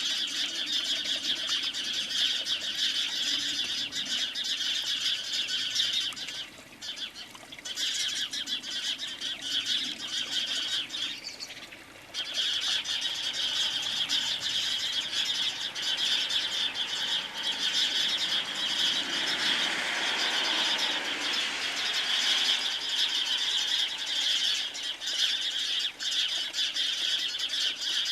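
Small birds at a feeder, tree sparrows among them, chirping continuously with wing flutters. The chatter drops away briefly twice, about seven and about eleven seconds in.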